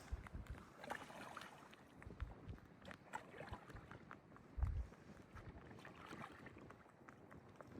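Faint scattered clicks and soft knocks, with one louder low thump a little past halfway.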